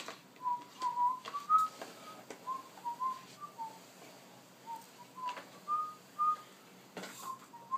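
A person whistling softly in short notes that step up and down like a tune, with a few light clicks between the notes.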